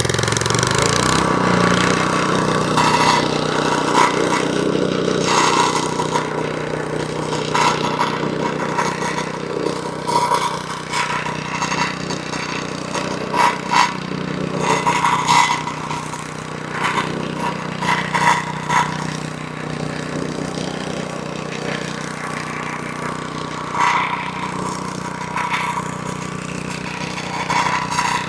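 Small gas engine of a VEVOR 78.5cc plate compactor running steadily under throttle while the vibrating plate works over loose stone, with irregular rattling spikes throughout. The level jumps up right at the start.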